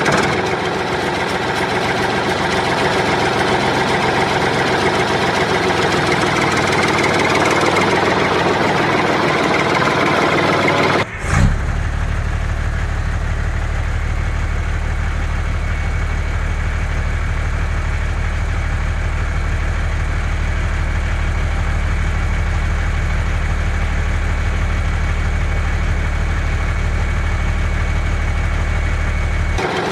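A vehicle engine running. About 11 seconds in it cuts abruptly to a steadier, lower engine idling.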